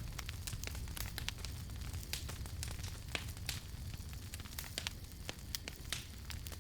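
Campfire burning, with irregular sharp crackles and pops of burning wood several times a second over a steady low rumble of the flames.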